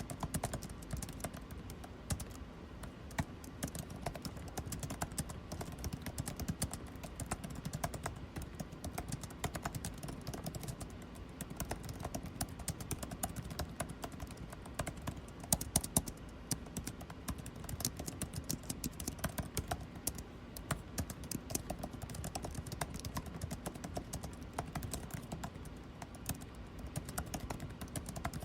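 Continuous rapid typing on a computer keyboard, quick irregular key clicks with a few harder keystrokes, over a steady low hum of air conditioning.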